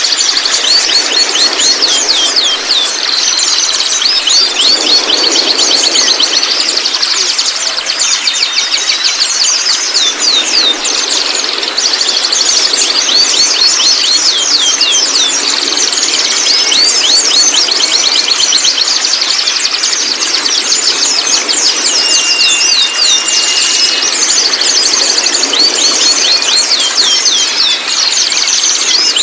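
White-rumped shamas giving the rapid rattling 'trotol' call: fast series of high, sharp repeated notes running on and on, broken by a few gliding whistles and one short held whistle about two-thirds through.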